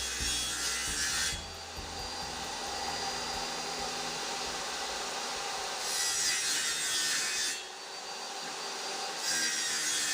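Homemade table saw built from a circular saw, running with a steady motor whine and cutting wood in three passes: a cut ends about a second in, another runs from about six to seven and a half seconds, and a third starts near the end.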